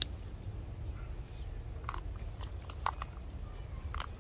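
Steady high trill of crickets in the background over a low rumble, with a few short, light clicks.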